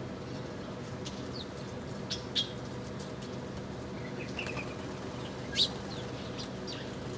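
Small birds at a feeding pot giving a few short, sharp chirps, the loudest about five and a half seconds in, over a steady low hum.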